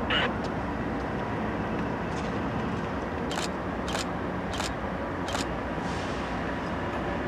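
Diesel freight locomotives approaching, a steady low engine rumble, with four sharp clicks a little under a second apart in the middle.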